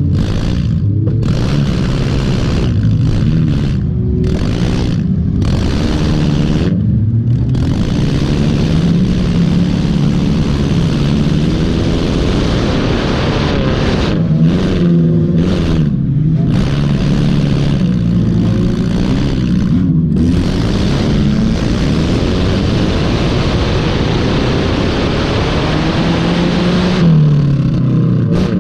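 Junk race car engine running hard, its revs rising and falling again and again as it is driven around the track.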